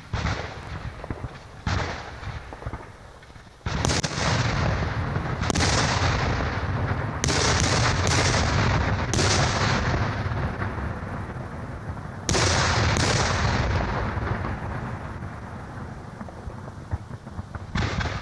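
Aerial fireworks shells bursting: about a dozen sharp bangs, some in quick pairs, each trailing off in a long rumble and hiss that overlaps the next.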